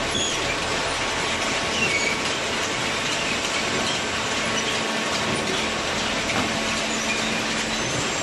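Two-ram horizontal baler running on cardboard, a steady mechanical din with faint steady hum and a few short, high squeaks.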